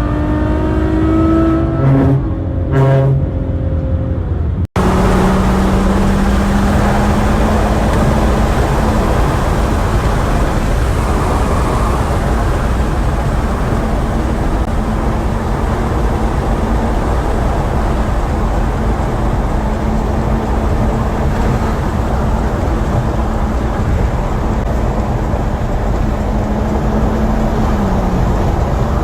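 Ferrari GTC4Lusso's V12 accelerating for the first few seconds, its note rising and breaking at quick gear changes. After a cut it holds a steady cruise under loud, even road and tyre noise, the engine tone dropping slightly near the end.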